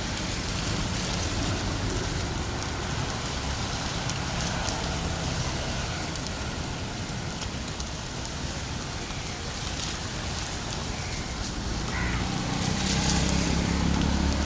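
Steady rain hiss with street traffic running underneath, and a few scattered faint clicks.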